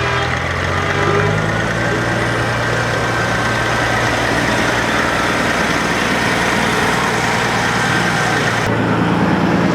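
Kenworth semi-truck's diesel engine idling steadily, with a faint high whine above it.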